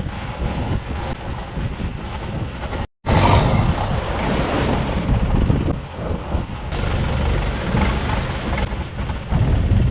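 Longtail boat's engine running under wind buffeting the microphone and the wash of waves, with a momentary break in the sound about three seconds in.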